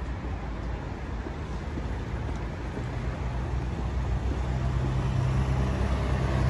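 Street traffic rumble with a motor vehicle's engine running close by, a low steady hum that comes in about halfway and grows louder toward the end.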